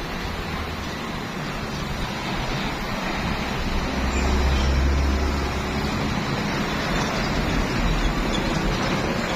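Truck engine running with a deep rumble that grows louder about three seconds in and eases off a few seconds later, over a steady rushing noise.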